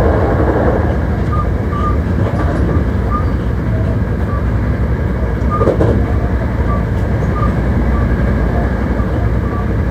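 Hankyu 1300 series electric train running at speed on the Kyoto Line: steady rumble of wheels on rail, with a brief knock a little past the middle.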